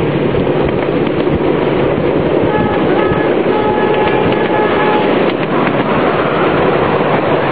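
Miniature ride-on train running along its track with a steady rumble and rattle of wheels on rail. Midway a horn or whistle sounds for about two and a half seconds, with a short break in it.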